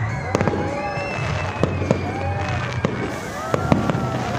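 Aerial fireworks display: several sharp bangs of shells bursting at irregular intervals, one after another.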